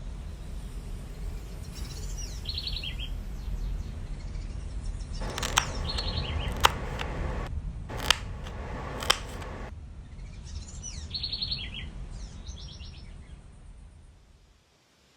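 Small birds chirping in short trilled bursts over a steady low background rumble. Four sharp clicks stand out in the middle of it, and everything fades out near the end.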